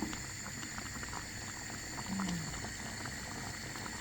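Cornstarch-thickened sauce boiling in a pot, a steady stream of small bubbles popping and spluttering. A short low tone sounds about halfway through.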